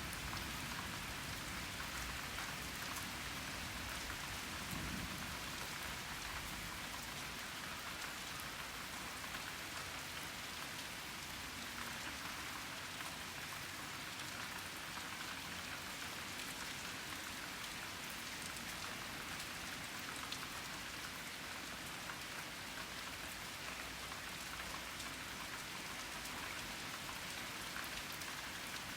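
Steady rain falling and pattering on surfaces during a summer thunderstorm, with a faint low rumble in the first few seconds.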